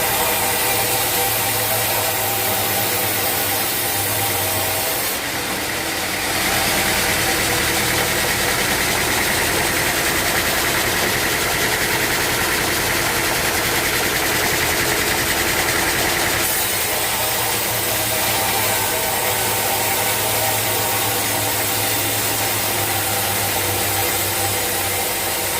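Sawmill machinery running steadily with a low engine hum. For about ten seconds in the middle a harsher, higher whine rises over it, as the saw cuts through a teak log.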